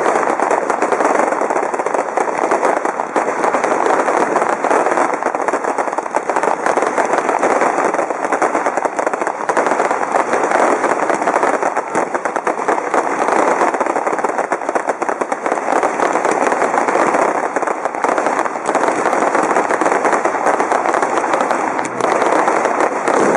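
Fireworks going off at close range in a continuous dense crackle, many rapid pops running together without a break.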